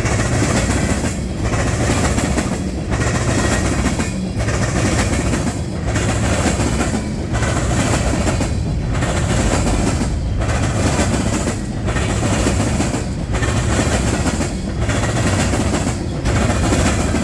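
Freight cars rolling past at steady speed. The wheels clatter and rumble on the rails, and the sound dips briefly about every one and a half seconds as each car goes by.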